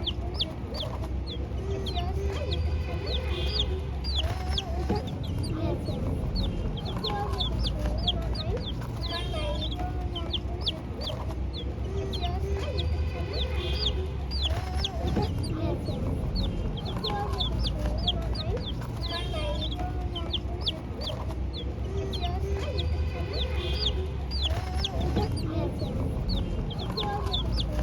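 Many young chicks peeping continuously in quick, high, short cheeps, with lower clucking calls of chickens mixed in.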